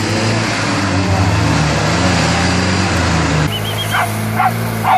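A 4x4's engine is revving unevenly under load in deep mud. After a sudden cut an engine keeps running while a small dog barks three times.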